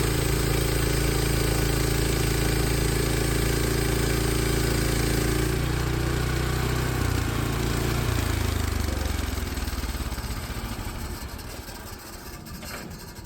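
Engine of a Hud-Son Homesteader 36-inch bandsaw mill running steadily during a cut, then dropping in pitch about seven seconds in and winding down to a stop.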